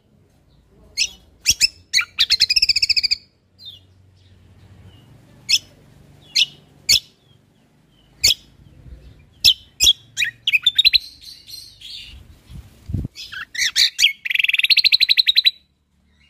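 Cucak kombo (kecial kombok) songbird singing: sharp single whistled notes broken by fast trilled bursts, one about two seconds in and a longer one near the end.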